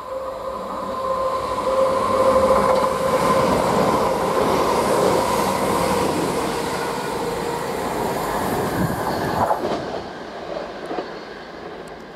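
CrossCountry Voyager diesel multiple unit passing at speed: it grows loud over the first two seconds with a steady whine, then a rushing clatter of wheels on rail as the coaches go by. About ten seconds in it cuts abruptly to a quieter, more distant train.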